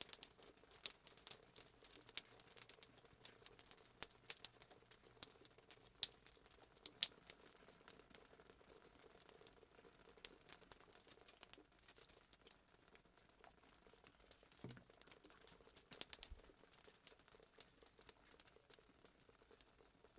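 Fireplace sound effect: a wood fire crackling faintly, with many small irregular pops and snaps.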